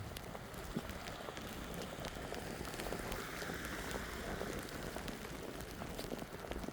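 Steady crackling patter of snow during a walk through a snowstorm, with many small, irregular ticks and no clear footstep rhythm.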